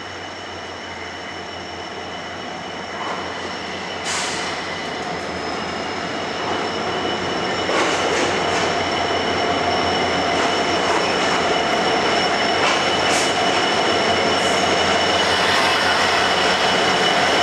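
Express train running on the rails with ICF coaches, a steady high whine of the wheels over the running noise. There is a sharp clatter about four seconds in, and the sound grows steadily louder as the train gathers speed.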